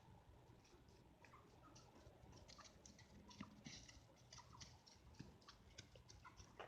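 Near silence: faint scattered clicks and ticks, with a few brief, faint high chirps.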